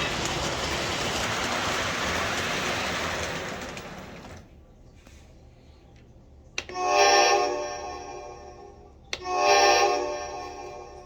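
O gauge model train running on the track, a steady rushing rumble of wheels and motor that fades out about four seconds in. Then the train's horn sounds twice, two blasts of about two seconds each, each opening with a sharp click.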